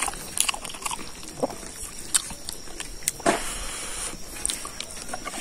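Close-up eating sounds: wet chewing and lip-smacking clicks from a mouthful of pork leg meat, with a short rushing, breathy noise about three seconds in.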